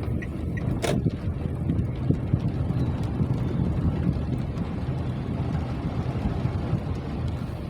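Rain, heard as a steady, dense low rumble, with one sharp knock about a second in.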